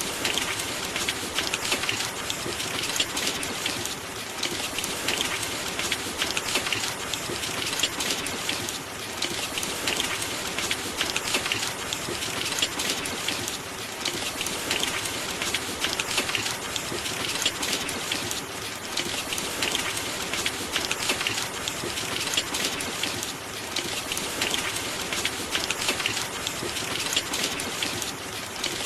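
Steady rainfall, a dense patter of drops that swells and eases every few seconds.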